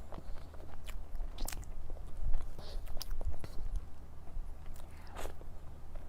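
Close-up chewing and mouth sounds of someone eating cake: scattered wet smacks and small clicks, over a steady low hum.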